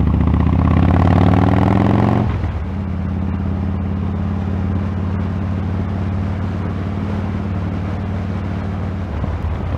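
Motorcycle engine that has just started, running at a raised idle for about two seconds and then settling to a steady idle.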